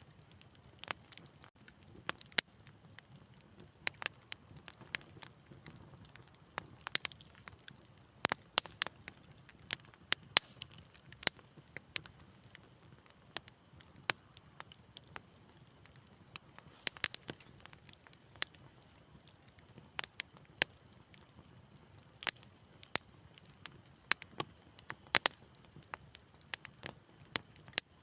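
Wood fire burning in a fireplace, crackling with irregular sharp pops and snaps, several a second, over a faint low rumble of flame.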